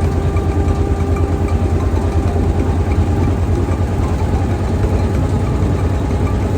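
Tour boat's motor running steadily, a fast, even low throb.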